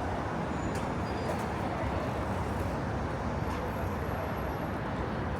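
Steady city street noise of traffic running past, with a few faint clicks.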